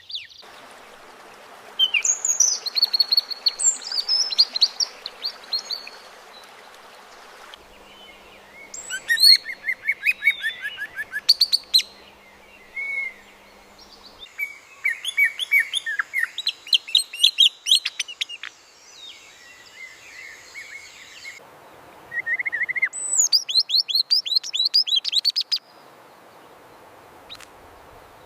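AI-generated birdsong: bursts of quick chirps and trills with short pauses between phrases, over a faint background hiss that changes abruptly a few times.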